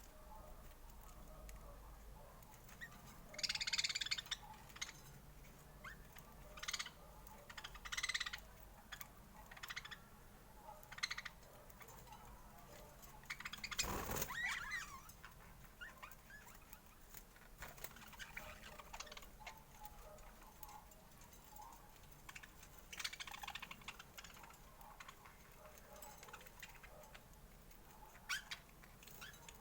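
Budgerigars chirping and chattering faintly in short, scattered bursts, with a sharp click about halfway through.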